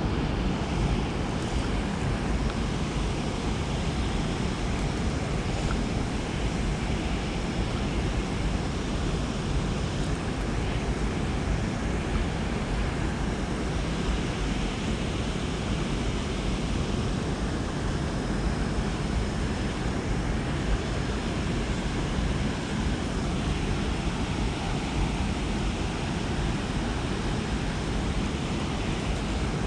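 Steady rushing water, an even roar without distinct events, with wind buffeting the microphone.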